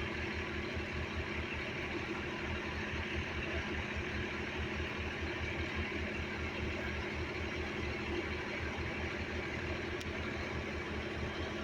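A vehicle engine idling steadily, with a fast, even low throb.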